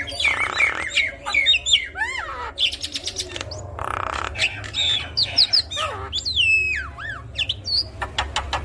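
Javan myna (jalak kebo) singing a varied, busy song: whistled notes that glide up and down, quick clicking trills, and harsh rasping calls about half a second and four seconds in.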